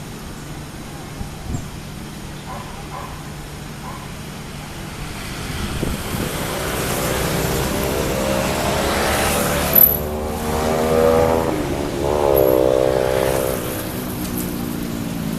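An engine passes close by, its pitched note building as it approaches and bending in pitch as it goes past, over a steady low hum. Two brief high squeaks come partway through.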